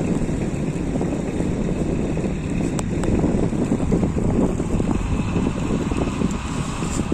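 Storm wind buffeting the microphone, a steady low rumble.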